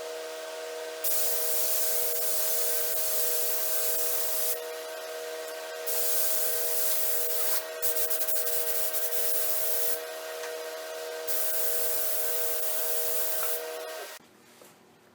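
Compressed-air automotive paint spray gun hissing in four long bursts as the trigger is pulled for each pass, with a brief fluttering break in the third burst, over a steady hum of several tones. It all cuts off about a second before the end.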